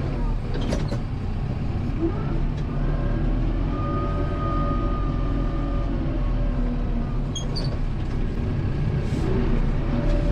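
Kubota M7060 tractor's four-cylinder diesel engine running steadily under work while pushing snow, with a higher whine that comes in for a couple of seconds in the middle and a few faint clicks.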